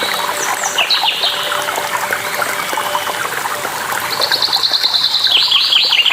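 Songbirds chirping over steadily running, trickling water. A couple of falling whistled calls come about a second in, then a fast trill about four seconds in, then a run of short falling notes near the end.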